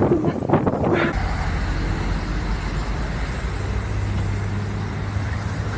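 Motor vehicle engine running steadily with a low rumble and hum, typical of road traffic. It starts abruptly about a second in, after a short stretch of uneven gusty noise.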